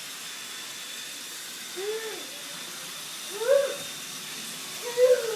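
A cat meowing three times, short arched calls that rise and fall, the last one the loudest. A faint steady high-pitched hum runs underneath.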